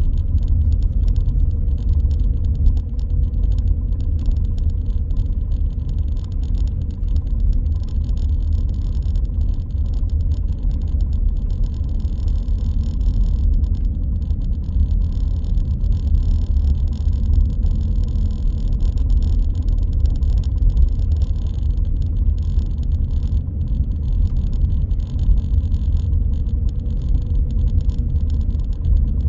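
A car driving at steady speed: a continuous low rumble of engine and road noise, with a faint steady hum above it.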